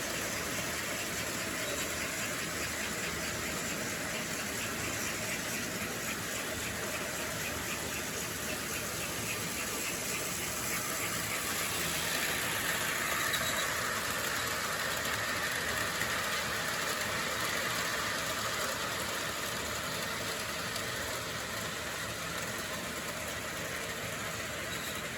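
An O scale model train running on its track: a steady electric motor hum with wheel and rail noise, louder in the middle.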